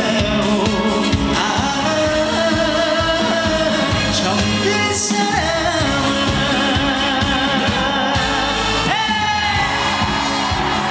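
Live traditional trot (teuroteu) band music with a steady beat during the instrumental interlude between verses, a pitched lead melody sliding over the accompaniment.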